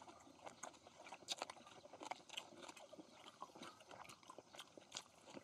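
Faint chewing and crunching as lettuce wraps of grilled pork belly are eaten, with scattered small irregular clicks.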